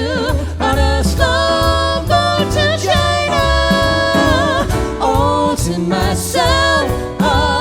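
Jazz vocal singing long held notes with vibrato over piano, upright-style bass and drums.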